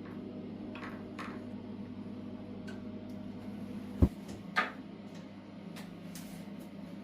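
Small household handling sounds, light clicks and taps, over a steady low appliance hum, with a sharp knock about four seconds in and a second knock just after.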